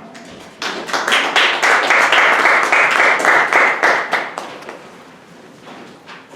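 Audience applause, a dense patter of many hands clapping that starts about half a second in and dies away after about four seconds.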